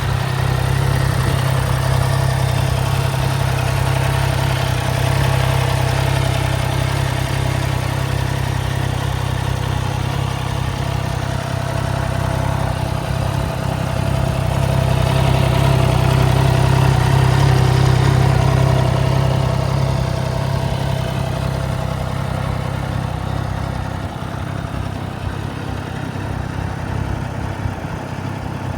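Motorcycle engine running steadily at idle, a low, even hum that swells a little partway through.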